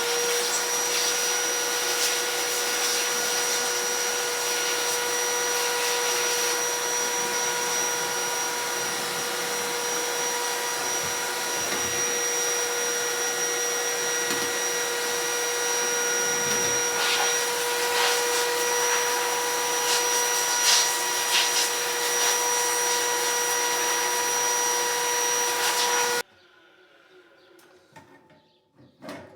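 Vacuum cleaner running steadily with a constant whine, taking the bulk of the dust out of the inside of a wall fan; it is switched off abruptly near the end.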